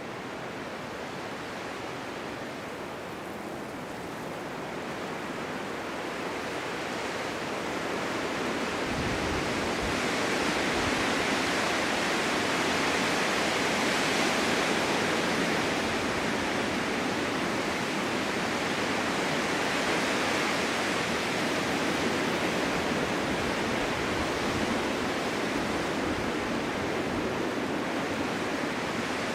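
Strong wind blowing in a steady rushing hiss, gusting up gradually over several seconds and then holding.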